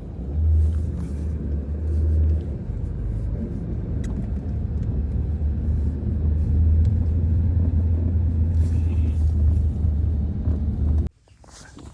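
Blizzard wind buffeting the microphone: a loud, steady low rumble that cuts off suddenly near the end.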